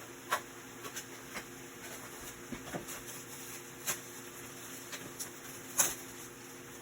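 Scattered light clicks and knocks of kitchen utensils, about ten in all and the loudest near the end, over a steady hum from a kitchen appliance.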